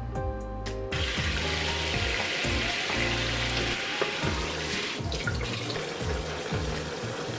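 Water running from a kitchen tap, a steady hiss that starts about a second in and thins out past the middle, with a few light clicks, over background music with a steady bass line.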